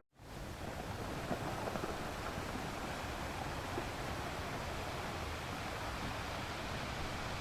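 Sea ambience: a steady, even wash of waves and wind, rising in over the first half second.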